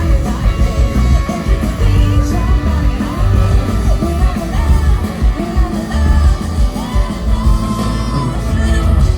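Live pop-rock band playing with heavy bass and drums while a woman sings held, wordless or shouted vocal lines over it.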